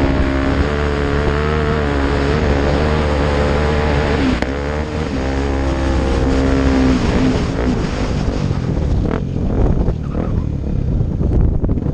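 Off-road motorcycle engine running, its pitch wavering up and down, then dropping away about seven and a half seconds in, leaving loud rushing noise with a few clicks.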